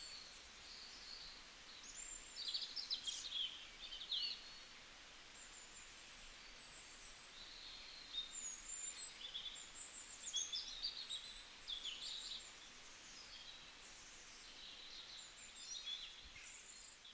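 Small songbirds chirping and trilling, many short high calls and quick trills coming and going, over a faint steady hiss of ambient noise.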